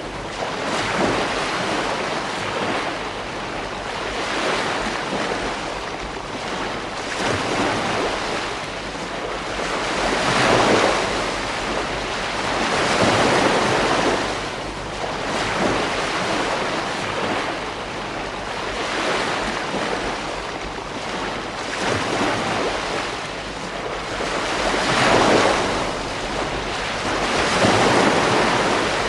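Ocean waves breaking and washing on a beach, the surf swelling and fading every two to three seconds.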